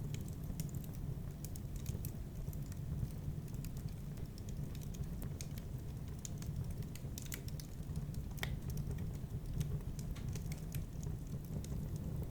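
Wood fire in a fireplace crackling: irregular sharp snaps and pops over a steady low rush.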